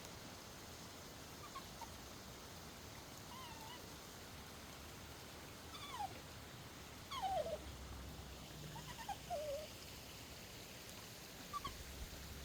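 A dog whining softly: a few short high whines, each falling in pitch, mostly in the middle stretch.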